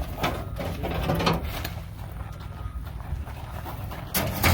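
Clunks and knocks of the 1955 Chevy 3100's sheet-metal front clip (fenders and front end) being lifted off the truck by hand, with a few knocks early and two sharper ones close together near the end.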